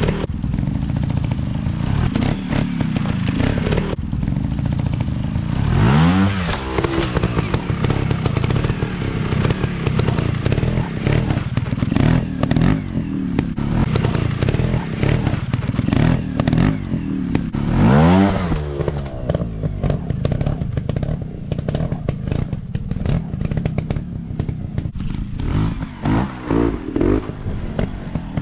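Dirt bike engines running under load with the throttle worked, rising sharply in pitch about six seconds in and again around eighteen seconds, then short, choppy throttle blips near the end.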